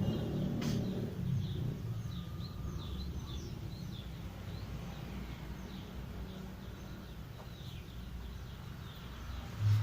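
Birds chirping over and over in short, high, falling chirps, over a low steady background rumble. A passing vehicle fades out in the first second, and a brief low thump comes at the very end.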